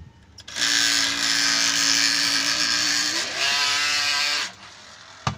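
Small Tamiya hobby electric motor spinning the toy boat's propeller: a loud steady whine that starts suddenly, rises in pitch about three seconds in, then cuts off. A single sharp click follows near the end.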